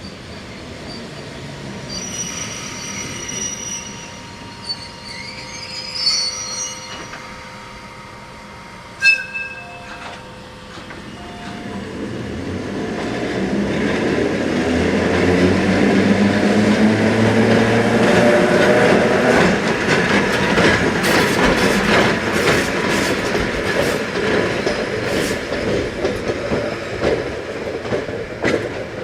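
A train moving at a station: high wheel squeal early on, a sharp knock and a brief horn note around nine to eleven seconds in, then a rising engine note as it gathers speed and wheels clacking over rail joints.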